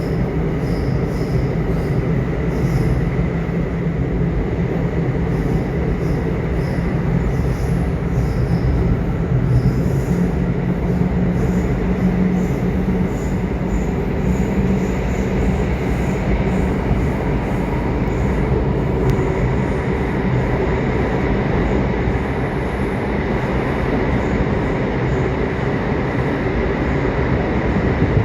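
Subway train running, a steady rumble and rush of noise with a thin steady whine, as heard from on board.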